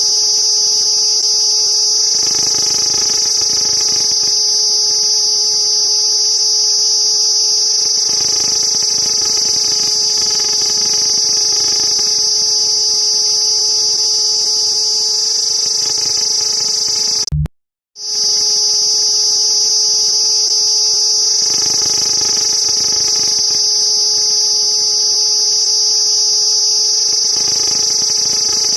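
Cicada buzzing: a loud, steady, high-pitched drone. It cuts out for a split second a little past halfway, then resumes unchanged.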